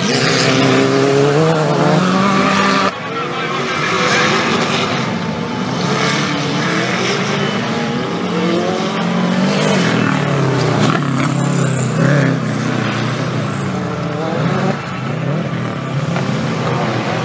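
Engines of 4WD off-road race vehicles revving hard, their pitch rising and falling again and again as they race, with an abrupt change in the sound about three seconds in.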